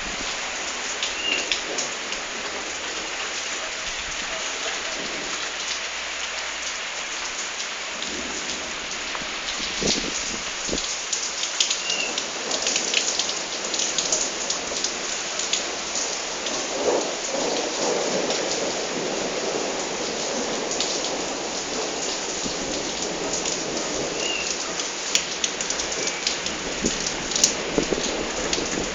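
Heavy rain falling steadily and splattering on hard surfaces, with many close drips and splashes; a swell of thunder rumbles through the middle.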